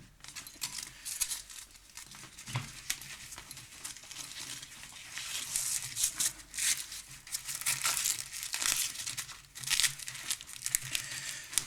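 Long Velcro strap being handled, pulled and wrapped: irregular scratchy rasps and short rips, busiest about six to nine seconds in.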